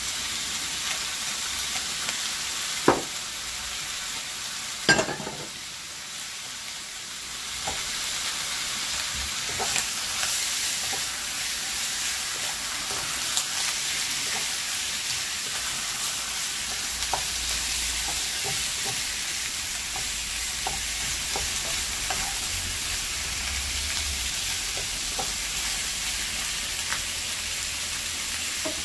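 Chicken pieces sautéing with garlic and onion in a pot, sizzling steadily while a utensil scrapes and taps against the pan. Two sharp knocks come about three and five seconds in, and the sizzle dips briefly before it picks up again.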